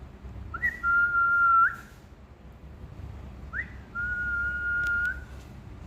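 Grey parrot whistling twice. Each whistle is a quick upward slide into a long, level, clear note, and the second note is held longer.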